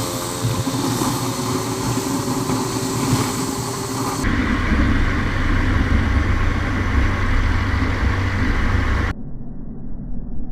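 Vehicle engine and road noise in traffic, a steady low hum with no single event. About four seconds in the sound changes abruptly to a stronger low drone, and near the end it turns duller and quieter.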